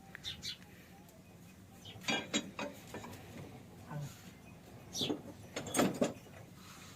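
A few metallic clanks and scrapes, bunched in two groups about two seconds in and again near the end, from hands working on a stationary old diesel engine that is not yet running.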